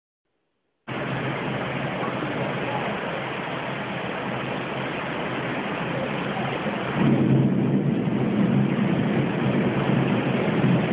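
Thunderstorm: steady heavy rain that starts abruptly about a second in after silence, with a low rumble of thunder swelling about seven seconds in.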